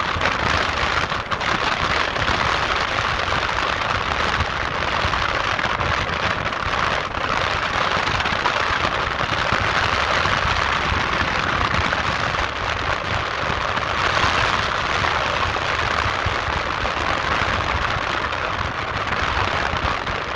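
Erupting volcano heard close up: a steady, dense rushing and hissing from the vent and spattering lava, with a deep rumble underneath.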